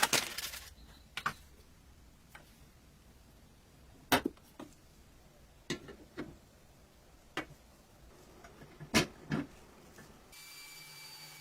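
Scattered clicks and light knocks of small steel toy-truck parts being handled and fitted, about a dozen sharp ones spread unevenly, the loudest about four and nine seconds in. Near the end a faint steady hum starts up.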